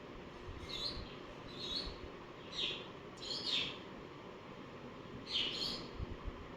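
A pet bird giving short chirping calls, about five in all, some falling in pitch.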